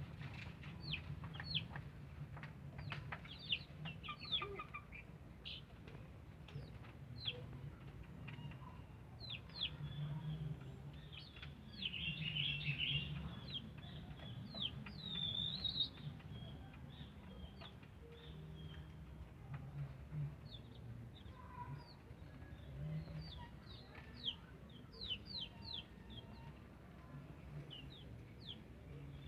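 Birds chirping: many short, high notes that sweep downward, scattered through the whole stretch and crowding together about twelve seconds in, over a low murmur.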